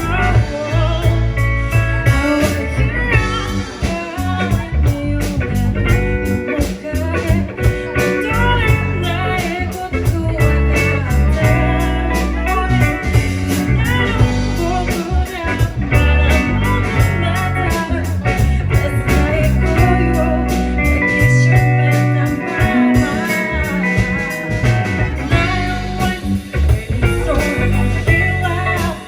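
Live band playing a slow, blues-tinged song, with guitar to the fore.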